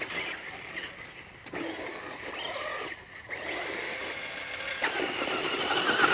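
Electric RC car's motor whining under throttle, its pitch rising and falling in several bursts with short breaks between, as the car accelerates and lets off.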